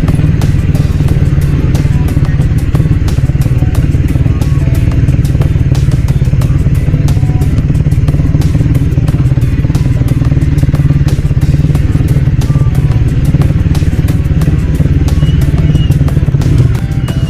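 Motorcycle engine running steadily while riding at an even speed, with no marked revving or gear changes.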